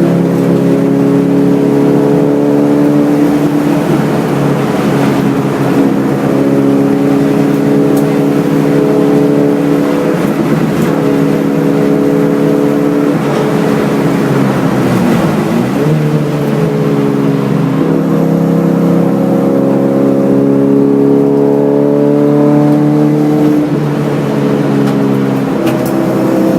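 A Hyundai Excel race car's 1.5-litre twin-cam four-cylinder engine running hard through laps, its pitch rising and falling through gear changes, with a brief drop about fifteen seconds in before it climbs again, heard from inside the car.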